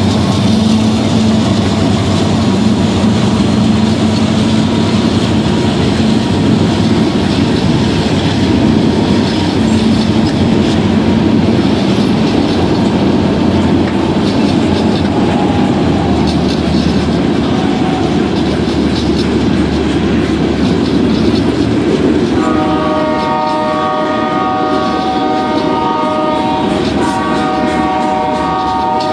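Freight train of covered hoppers and tank cars rolling past, a steady heavy rumble with wheel clatter over the rails. About 22 seconds in a steady chord of several high tones starts, breaks off briefly and starts again.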